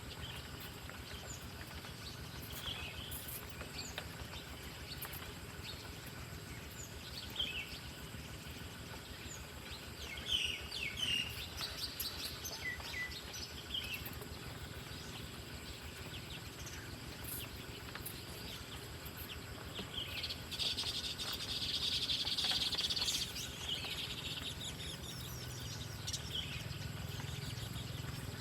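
Wild birds calling with short, scattered chirps, and a louder, buzzy chatter for about two seconds near the two-thirds mark, over a steady outdoor background hiss.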